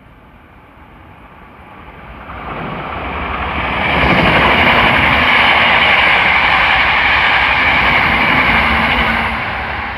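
A train approaching and passing through the station: a steady rumbling noise that builds over about three seconds, stays loud for several seconds, then begins to ease off near the end.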